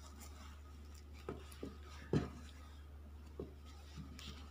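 A few soft, separate knocks and taps from handling a sewn cloth fridge handle cover, the strongest about two seconds in, over a steady low hum.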